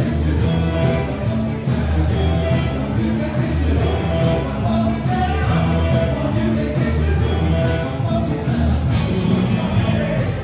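Rock band playing live, with a steady drumbeat, bass and a voice singing.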